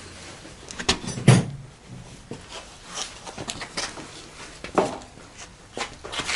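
A few scattered knocks and clunks of things being handled, the loudest about a second and a half in.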